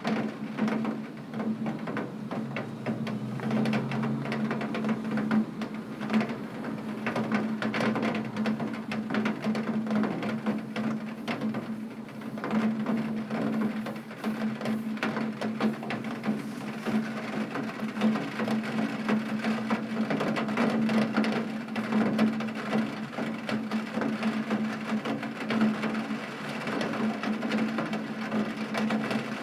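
Heavy rain on a window pane: a dense, irregular patter of drops striking the glass, with a steady low hum underneath.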